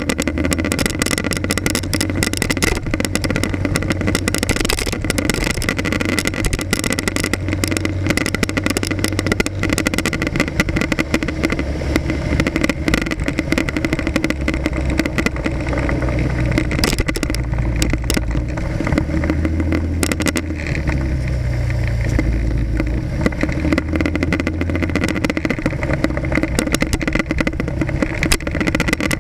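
Motorcycle engine running through city traffic, picked up by an action camera mounted on the front of the bike, its pitch rising and falling with speed. Frequent short clicks and rattles run through it.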